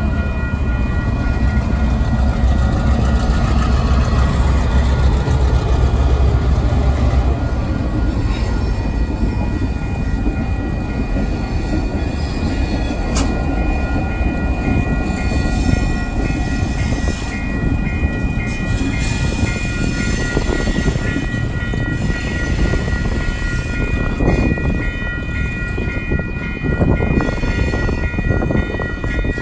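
CN GP9 diesel locomotives hauling a freight train past at close range. Their engines run loud for about the first seven seconds, then the freight cars roll by. A level-crossing signal bell rings steadily throughout.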